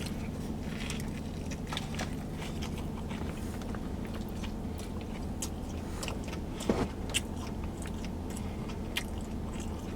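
Close-miked chewing and biting of food, with many small wet smacking clicks, over a steady low hum. A brief falling vocal sound, like a short 'mm', comes about seven seconds in.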